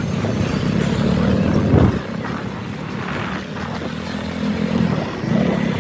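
Motorcycle engine running while riding. It builds up over the first two seconds, eases off sharply about two seconds in, and picks up again near the end.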